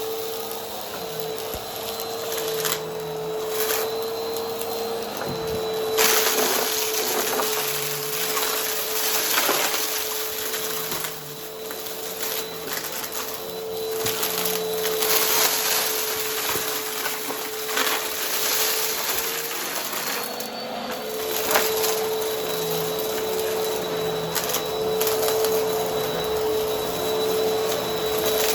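Vacuum cleaner running with its brushroll on, a steady motor whine under a crunching, crackling noise that swells and fades as it picks up dry debris.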